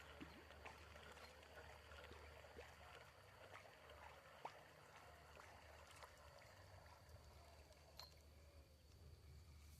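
Near silence: faint outdoor ambience with a low hum, a faint steady high tone and a few scattered small clicks.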